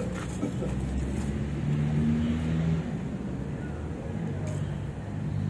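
A motor vehicle engine running, a low steady hum that drifts slightly up and down in pitch.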